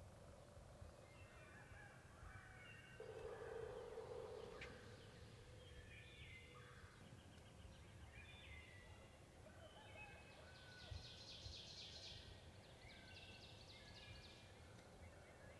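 Faint woodland songbirds singing: many short, overlapping phrases, with a fast trill about ten seconds in.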